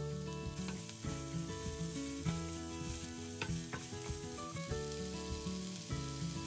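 Chopped red onion sizzling in hot olive oil in a frying pan, the sizzle getting louder about half a second in, with a few sharp clicks.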